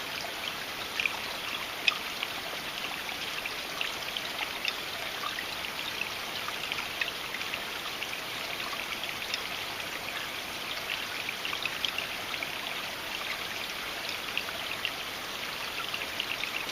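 A creek running with a steady babbling, full of small trickling ticks.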